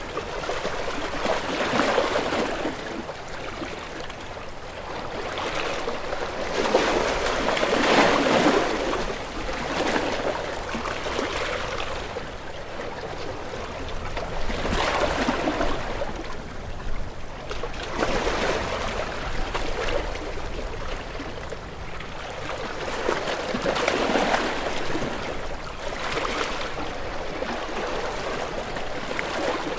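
Waves washing in and drawing back, a continuous rush of water that swells and fades every few seconds, with the strongest surges about 8 and 24 seconds in.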